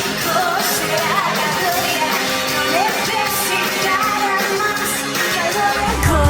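Live band music with a wavering melody line over sustained notes; a heavy bass comes in just before the end.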